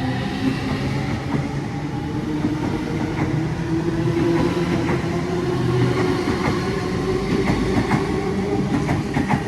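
Electric suburban train moving through the station: motor whine rising in pitch over a low rumble, with wheels clicking over the rail joints in the second half.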